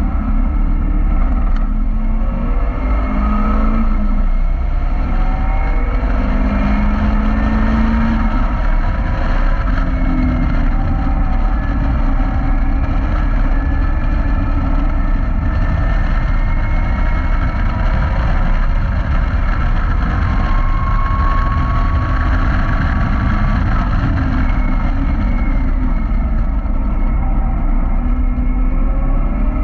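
Caterham Roadsport's engine driven hard on track, its pitch climbing under acceleration and falling back on gear changes and braking, again and again. Heard from inside the open cockpit, with heavy wind rumble on the microphone.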